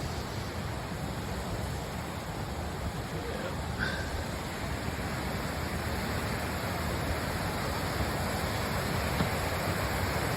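Small waterfall rushing over rocks, a steady even rush of water that grows a little louder toward the end.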